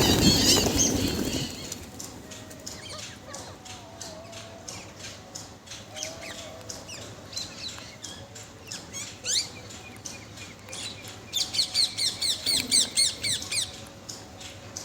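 Parrots chirping. A loud burst of wing flapping comes at the start, and near the end a quick run of about ten repeated high chirps.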